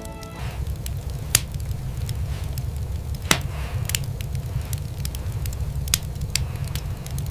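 Wood fire crackling: scattered sharp pops, the loudest about three seconds in, over a steady low rumble.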